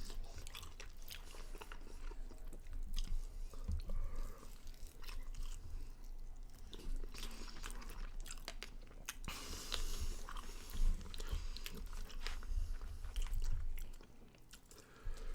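Close-up chewing and biting on chicken wings, with wet smacks and small crunches coming irregularly; it quietens about a second before the end.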